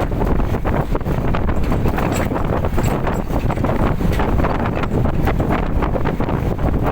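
Strong storm wind buffeting the microphone in a steady, loud rumble, with many short crackles through it.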